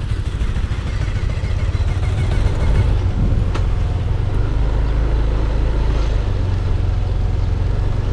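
Yamaha Aerox 155 scooter under way: steady engine and road noise under a heavy low wind rumble on the action-camera microphone, with a faint whine in the first few seconds.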